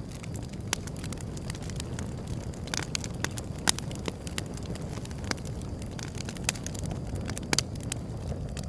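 Wood fire burning, a steady low rumble with irregular sharp crackles and pops of the burning wood, the loudest pops about three and a half and seven and a half seconds in.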